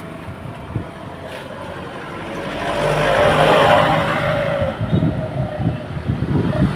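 Road traffic with a motor vehicle passing close, swelling to its loudest about halfway through and then fading.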